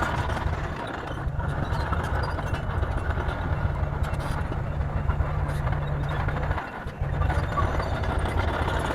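Bulldozer's diesel engine running steadily with a low, even hum; the sound drops away for a moment about two-thirds of the way through, then picks up again.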